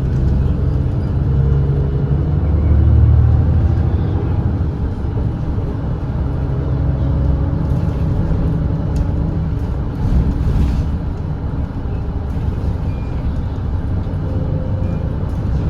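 Volvo B8RLE double-decker bus's six-cylinder diesel engine running at expressway speed, a steady low drone that swells briefly about two to three seconds in.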